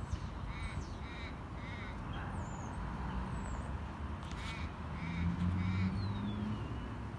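A bird cawing in short harsh calls in runs of three, two runs about four seconds apart, with faint high chirps of small birds above. A thin falling whistle comes near the end.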